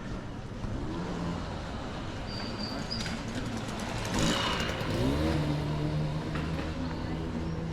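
A motor vehicle's engine running, its pitch rising and falling and loudest about four seconds in, then settling into a steady low hum.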